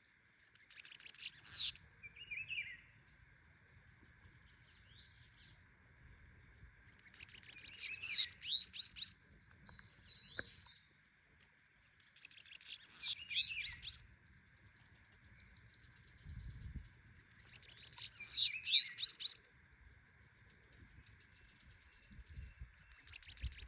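Bananaquit (sibite) singing repeatedly: about six high-pitched, rapid song phrases of roughly two seconds each, with quick falling sweeps, separated by short pauses.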